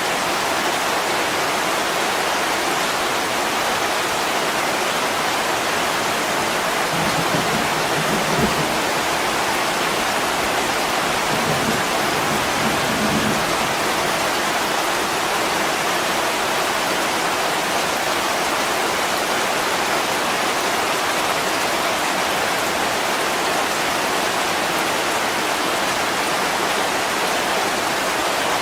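Heavy rain falling steadily on an attic window, an even dense hiss. Near the middle come a couple of brief low rumbles.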